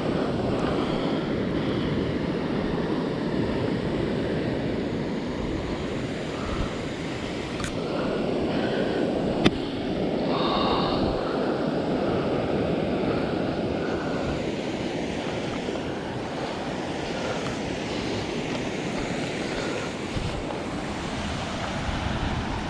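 Fast-flowing stream water rushing steadily, with one sharp click about halfway through.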